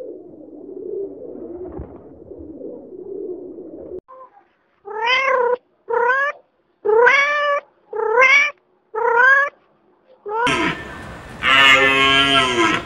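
Rock pigeons cooing with a low murmur, then a kitten meowing five times about a second apart, each meow rising in pitch. In the last two seconds a loud, harsh animal call comes in.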